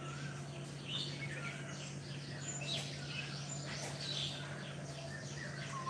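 Several birds chirping and calling in short, varied notes, over a steady low hum.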